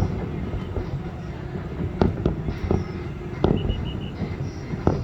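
Fireworks bursting overhead: a continuous low rumble of explosions with separate sharp bangs, a cluster of them about two to three and a half seconds in and another just before the end.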